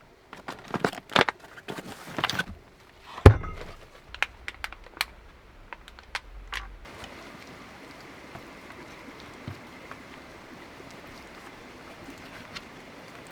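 Knocks and clinks of camp cookware being handled for several seconds, the loudest about three seconds in, then a steady even hiss.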